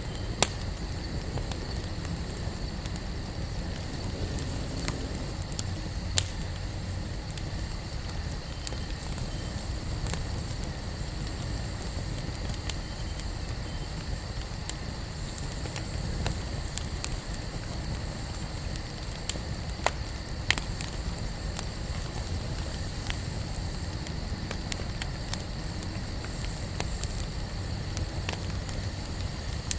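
Wood campfire burning with a steady low rush of flame and scattered crackles, broken by a few sharp pops from the burning wood, two of them close together about two-thirds of the way through.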